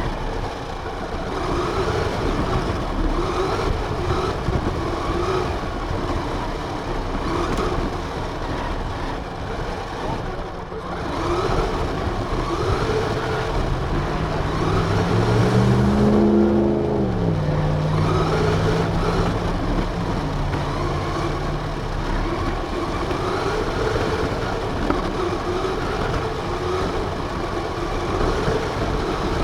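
RC car driving, recorded from on board: a rough running noise with a motor pitch that rises and falls again and again as the throttle changes. About halfway through, a deeper engine note rises and then falls away.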